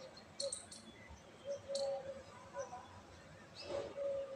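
Birds calling: short, high chirps about half a second and two seconds in, with a lower note repeated several times and held for up to half a second each.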